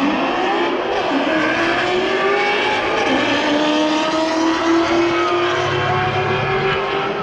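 Mustangs drag racing down the quarter-mile strip at full throttle, the engine note climbing steadily as they accelerate, with a break in pitch about three seconds in.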